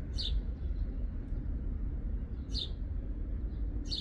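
A small bird chirping: three short, high single chirps a second or two apart, over a steady low rumble.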